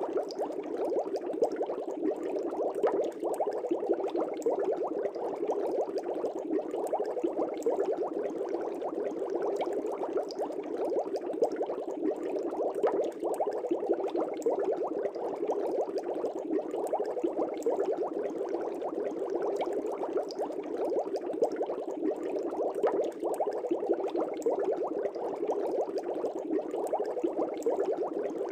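Fish tank air bubbles rising and bursting at the water surface: a continuous dense bubbling with many small pops, steady throughout.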